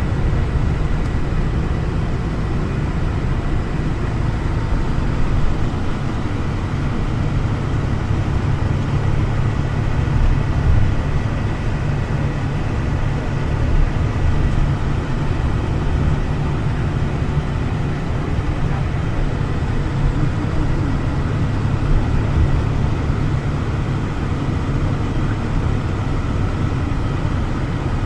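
Steady rumbling running noise of a moving passenger train, heard from inside the carriage, with a faint steady high whine above it.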